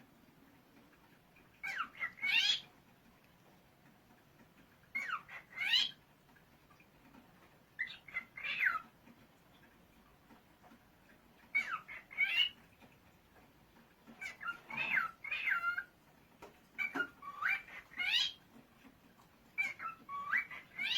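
Cockatiel calling in short whistled bursts, each a quick run of a few rising notes, repeated about every three seconds.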